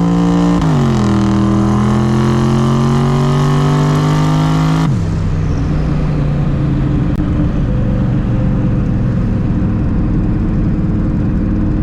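Twin-turbo Mustang Cobra V8 at wide-open throttle on its lowest boost setting, the engine note climbing, dropping with a quick upshift about half a second in, then climbing steadily again. About five seconds in the throttle is lifted and the engine falls to a steady lower drone.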